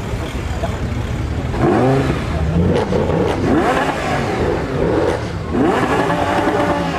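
Car engines revving, the pitch rising and falling a couple of times, over a steady low rumble of traffic.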